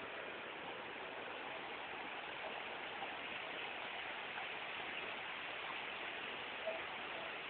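Steady rush of a fast-flowing, swollen ravine in flood, its quickly rising water running high toward overflowing.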